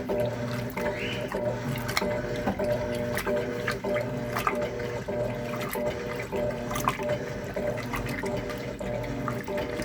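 Electrolux LTC10 top-loading washing machine working a full, heavy load: water sloshing and splashing in the tub over a low motor hum that pulses on and off about once a second, with scattered clicks.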